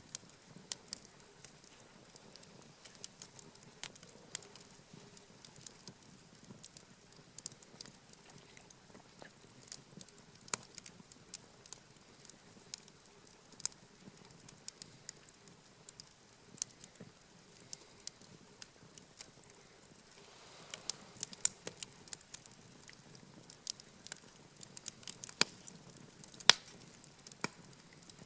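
Wood campfire crackling, with irregular sharp pops and snaps over a faint hiss. The pops come thicker and louder in the last third.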